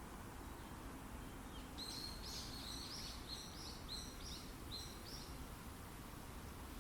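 A songbird singing one phrase of about nine quick repeated notes, lasting nearly four seconds, over a steady rush of wind through the forest.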